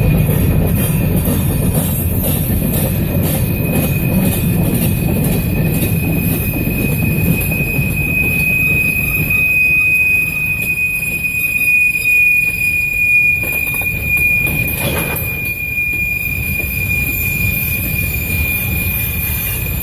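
Freight cars rolling past with a low rumble of wheels on rail and a steady high-pitched wheel squeal: flange squeal as the train swings through the turnout onto another main track. A short knock sounds about three quarters of the way through.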